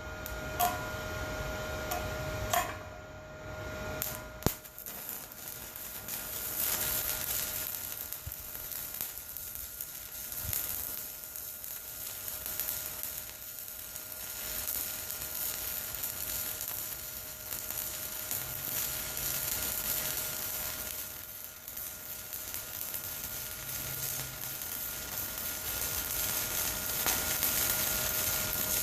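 Shielded metal arc (stick) welding with a 1/8-inch 7018 rod at 66 amps DC electrode positive on an Everlast 140 ST inverter welder: a few short clicks as the arc is struck in the first seconds, then a steady crackling sizzle as the bead is run, with a thin steady whine underneath.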